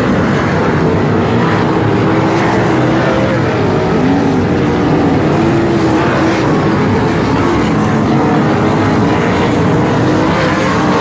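Sprint car engines running hard as several cars race around the track together. Their pitches overlap and rise and fall continuously as they circle.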